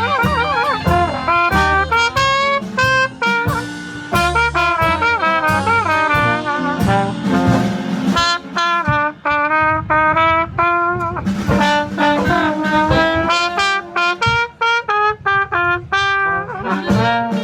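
Live blues band playing: a lead wind instrument plays wavering, bending notes over drums and a bass line.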